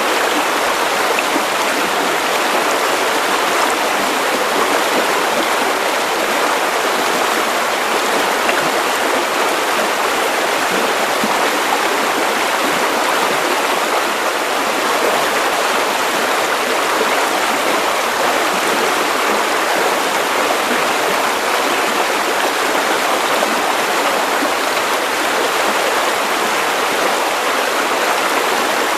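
Steady white noise, an even, unchanging hiss spread across the middle and high pitches with little bass.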